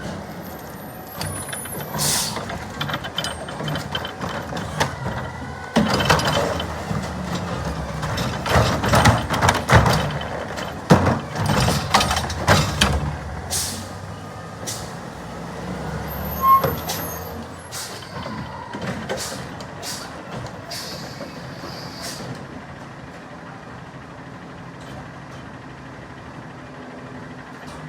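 Garbage truck's engine running, with an air-brake hiss about two seconds in and a loud run of clattering bangs in the middle, after which the engine runs on more quietly.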